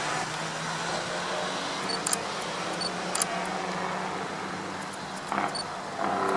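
Diesel semi truck engine running steadily, with a few sharp clicks over it.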